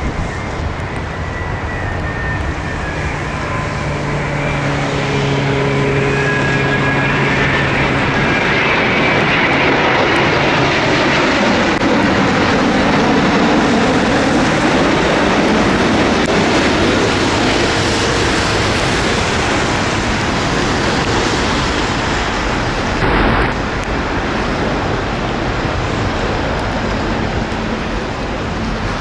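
Jet airliner passing low on landing approach: an engine whine followed by a rushing roar that swells to a peak about halfway through and then slowly fades. A brief thump about three-quarters of the way through.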